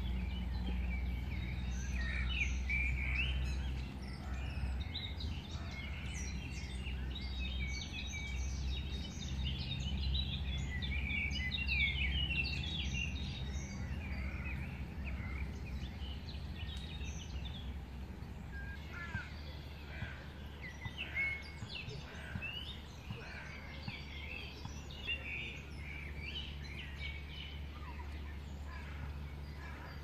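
Several songbirds chirping and singing in short, overlapping phrases, over a steady low rumble.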